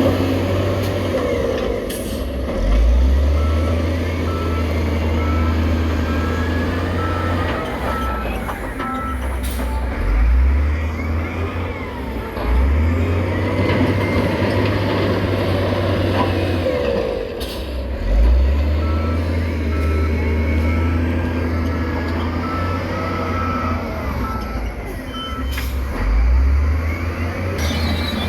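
Heavy diesel earthmoving machine working, its engine revving up and dropping back again and again. A reversing alarm beeps steadily in two spells, near the start and again past the middle, over metallic squeals and occasional clunks.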